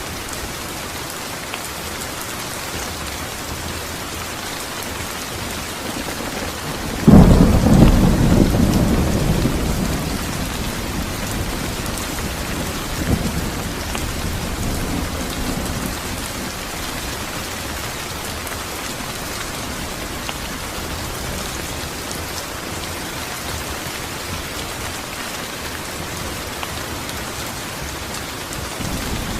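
Steady rain falling. About seven seconds in, a loud clap of thunder breaks in and rumbles away over the next few seconds. A softer roll of thunder follows a few seconds later.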